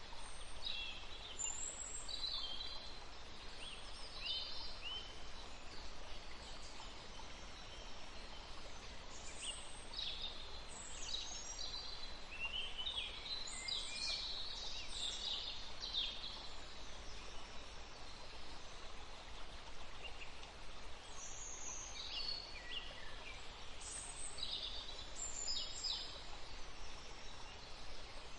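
A forest stream flowing steadily while songbirds sing in short bursts of high chirps and trills, busiest in the middle and again near the end.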